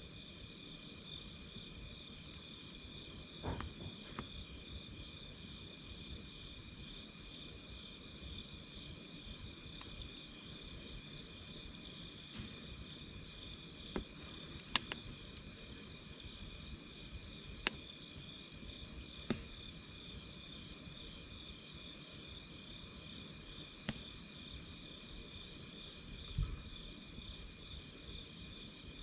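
Campfire crackling, with sharp pops every few seconds, over a steady high trilling of insects.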